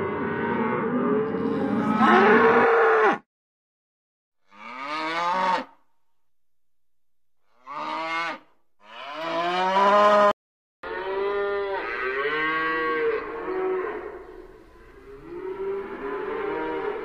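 Cows mooing: a series of long, pitched moos that start and stop abruptly, with short silent gaps between several of them. In the second half the moos come close together and overlap.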